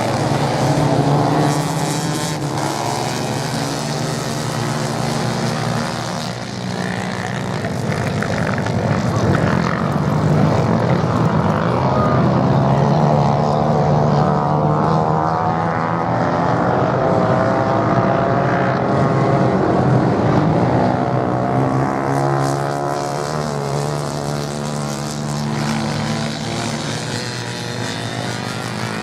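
Several racing motorcycle engines running together without a break, their overlapping pitches rising and falling as the bikes rev and pass.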